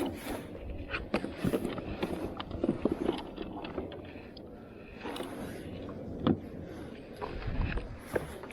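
Irregular knocks, taps and scrapes of handling on a plastic fishing kayak, over a steady low background.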